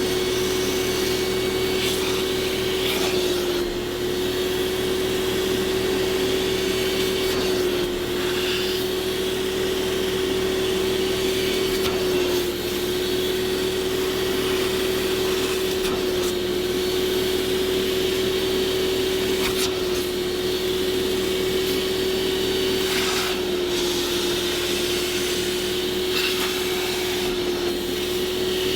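A vacuum motor running steadily with a high, even whine over the rush of air, its pitch dipping slightly every few seconds.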